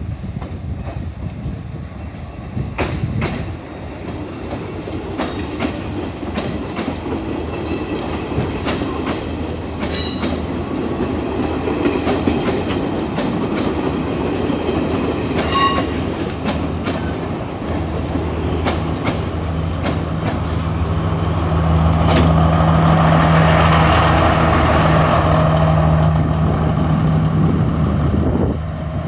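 Sri Lanka Railways Class S10 diesel multiple unit passing slowly: its wheels click over the rail joints as the carriages go by, with a few short high-pitched tones. In the last third the diesel engine of a power car drones loudly as it passes close.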